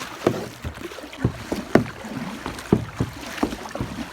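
Kayak paddle strokes splashing and dipping in fast-flowing floodwater, with sharp irregular splashes about one or two a second over a running-water hiss as the paddler works against the current.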